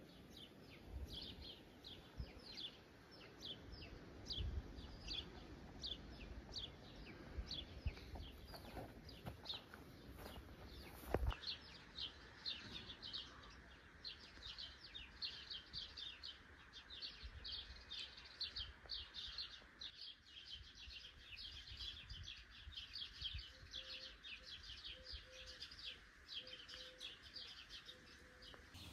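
Birds chirping constantly in short, quick high notes, several a second, with a single sharp knock about eleven seconds in.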